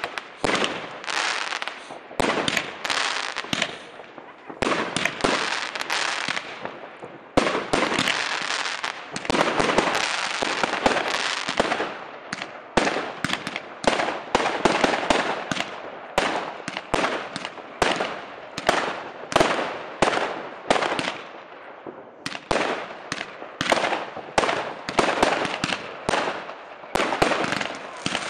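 Fireworks going off: a quick run of sharp bangs, often about two a second, with a stretch of dense crackling from stars bursting overhead about a third of the way through.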